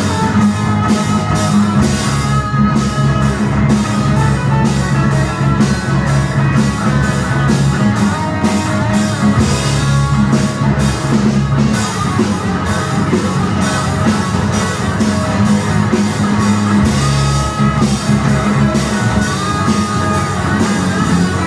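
Live rock band playing an instrumental passage: a drum kit keeps a steady beat under sustained electric guitar lines.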